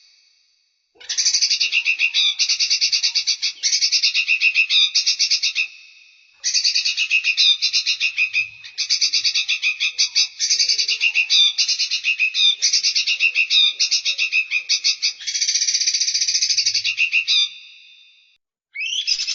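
A small songbird singing a high, rapid, rattling trilled song in long phrases several seconds each, broken by short pauses about a second in, around six seconds in and near the end.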